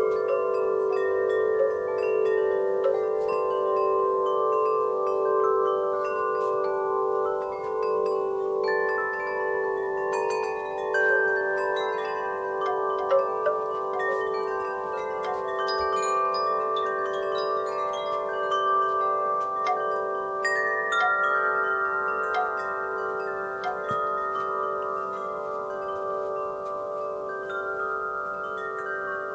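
Wind chimes ringing continuously as the breeze knocks them, many overlapping sustained tones struck at irregular moments.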